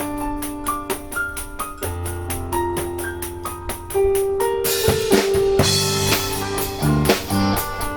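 Latin fusion band playing: drum kit with an even cymbal tick, bass and held keyboard chords. About halfway through the music grows louder, with cymbals ringing over the band.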